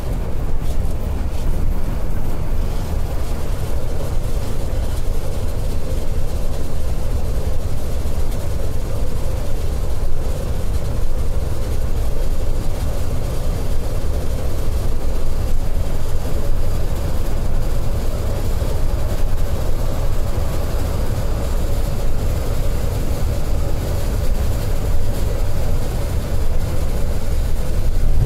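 Steady rumble of a Scania K410iB coach cruising on a highway, heard from inside the cabin: engine drone and road noise.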